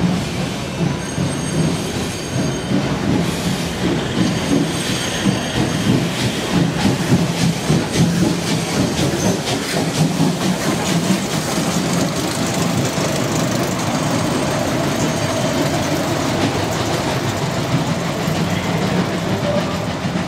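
Railway passenger coaches rolling slowly past close by, their wheels clacking steadily over the rail joints. High wheel squeal sounds over the first several seconds.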